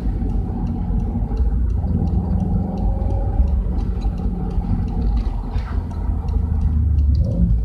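Subaru Legacy's boxer engine and exhaust running at a steady low rumble, with no big rise or fall in revs.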